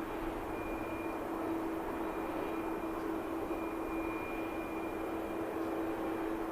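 Airliner jet engines running steadily: a constant rush of engine noise with a steady low hum and a fainter high whine.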